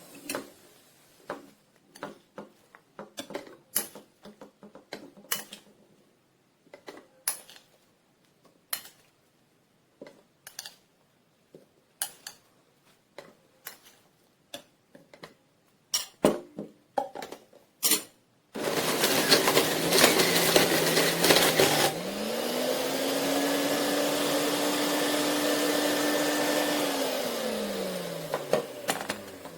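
Plastic parts clicking and knocking as the JUILIST 400 W juice extractor is handled. Then its motor starts suddenly with a rough grinding noise for a few seconds. It settles into a steady, higher whine that rises and holds, then winds down near the end.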